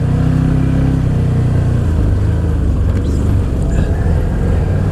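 Side-by-side's engine running steadily under the rider, its note dropping to a lower, rougher pitch about two seconds in as the throttle eases.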